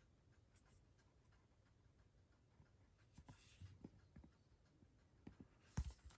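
Near silence with faint handling of a Blu-ray box set's disc book: soft rustling of card and paper a little over halfway through, then a few small clicks and a soft knock near the end.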